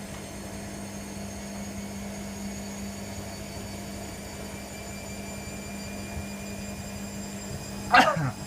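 Hoover Nextra HNWL7146 washer-dryer running with a steady hum and a faint whine that slowly rises in pitch as the drum speeds up. It is making another attempt to spin a bedding load, typical of a load the machine finds unbalanced. A short loud sound with a falling pitch cuts in near the end.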